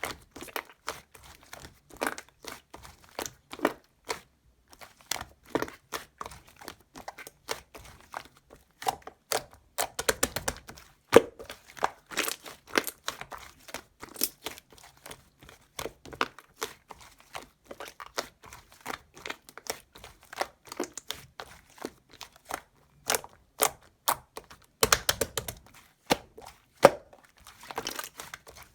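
Slime being squeezed and stretched by hand, giving an irregular run of small crackling clicks and pops. There are denser stretches about ten seconds in and again near the end.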